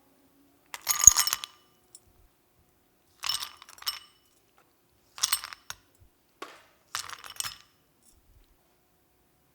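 Glass clinking in four short bouts of ringing chinks, the first the loudest.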